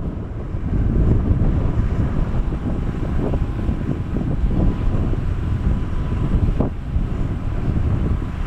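Boeing 767 jet airliner engines rumbling steadily on its arrival, mixed with wind buffeting the microphone, with a faint steady whine.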